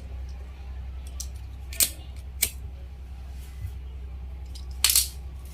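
Three short, sharp clicks from hand work on a lithium-ion battery pack as cells are joined in parallel: the snip and click of tools and small parts, about two and a half, then two and a half seconds apart, over a steady low hum.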